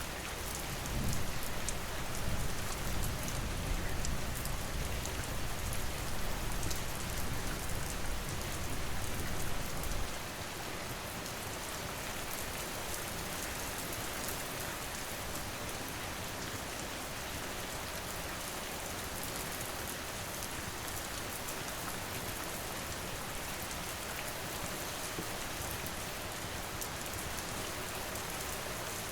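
Steady rain falling on a surface. A deep rumble rises about a second in and stops abruptly about ten seconds in.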